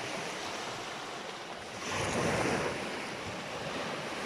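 Sea waves washing onto the shore, with one wave swelling louder about two seconds in.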